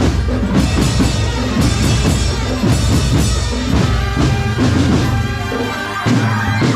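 Drum corps playing loud music, with drums and bass drum beats prominent.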